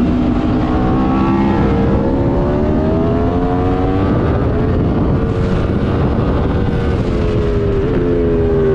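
Aprilia Tuono V4 Factory's V4 engine pulling on track, wind rush underneath. The pitch climbs through a gear and drops about four seconds in at a gear change, then holds steady.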